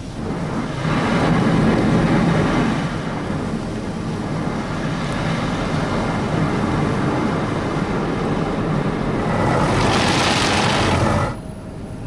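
Automatic car wash spraying water over the car, heard from inside the car: a steady rushing hiss of spray that builds about a second in, is loudest about ten seconds in, and cuts off suddenly near the end.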